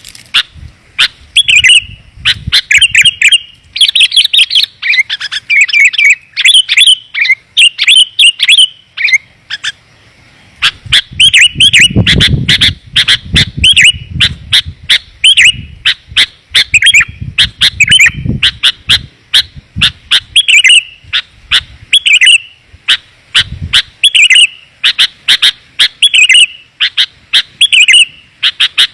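Sooty-headed bulbul lure call: a dense, rapid run of short, clear chirps. The chirps break off for about a second near the middle, and a low rumble sits under them for a while after.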